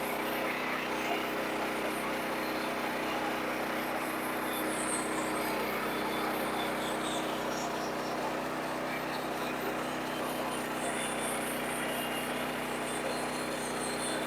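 Sawmill engine running at a steady speed, with an even drone and no change in pitch or load.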